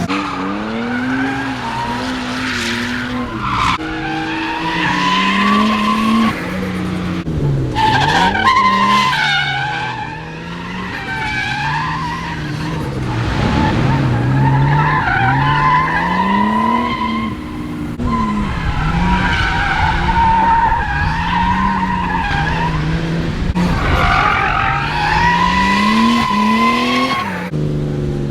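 Nissan Skyline R32 drift car's engine revving up and down over and over as it is thrown through corners, with the tyres skidding and squealing.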